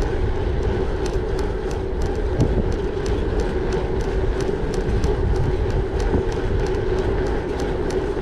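Gravel bike rolling steadily, with a constant hum from the tyres, wind rumbling on the microphone, and frequent small high ticks.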